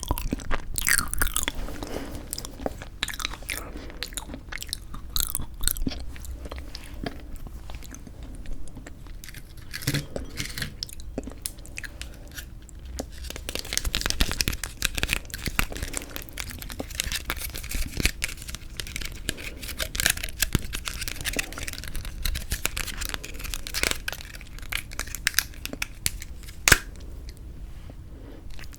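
Close-miked biting and chewing of frozen sweet red bean jelly (yanggaeng), in uneven bursts of short clicks and crackles, with one sharp click near the end.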